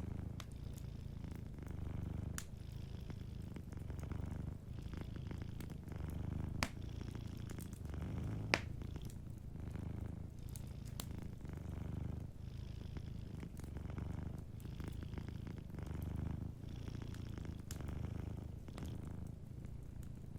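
A domestic cat purring steadily, its low rumble swelling and easing about every two seconds with each breath. Sharp pops of a wood fire crackle now and then over it, one louder pop about eight and a half seconds in.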